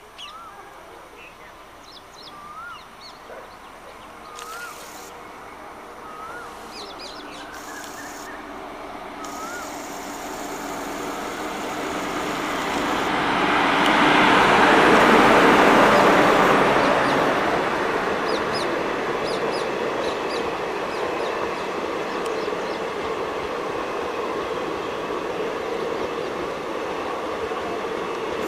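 Indian Railways WAP-4 electric locomotive hauling a passenger express, approaching and passing close by: the noise builds to a peak about halfway through as the locomotive goes past, then the coaches run by steadily. A bird chirps several times during the first ten seconds.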